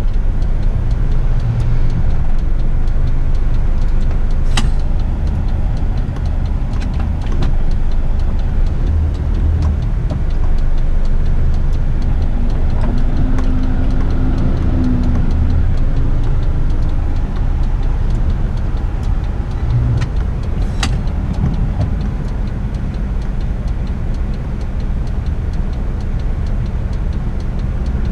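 Eight-wheeler twin-steer rubbish truck's diesel engine running under way, a steady low rumble heard from inside the cab. Two sharp clicks stand out, one about four seconds in and one about twenty seconds in.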